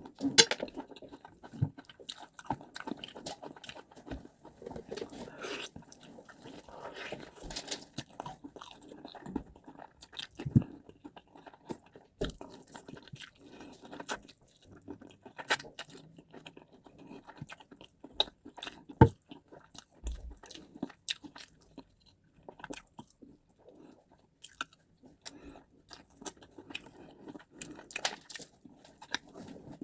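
Close-up mouth sounds of a person eating white rice and stew: chewing, smacking and crunching, with occasional sharp clicks and knocks, likely a utensil on the plate.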